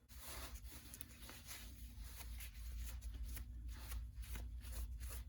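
Irregular rubbing and scuffing handling noises, many small scrapes in quick succession, over a low rumble.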